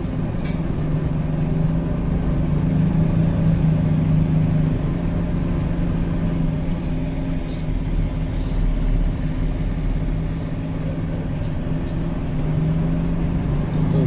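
A truck engine running steadily at low revs, heard from inside the cab, with a brief click about half a second in.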